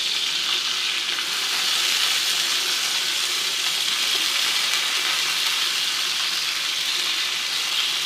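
Chicken reshmi kebabs sizzling steadily as they fry, a continuous frying hiss.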